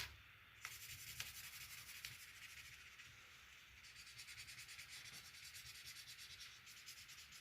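Faint scratching of a yellow marker coloured back and forth on paper in quick, even strokes.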